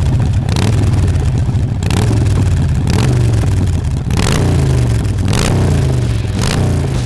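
Harley-Davidson Iron 1200's air-cooled Evolution V-twin, Stage 1 tuned with Screaming Eagle and Vance & Hines exhaust, close-miked at the exhaust outlet. It is revved hard in repeated throttle blips, the loud engine note rising and falling several times, with sharp cracks among the blips.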